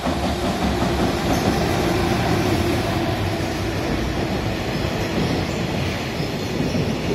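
JR Freight EF210 electric locomotive and its container wagons passing close at speed: a loud, steady rumble and clatter of wheels on rail. It turns loud at once as the locomotive draws level.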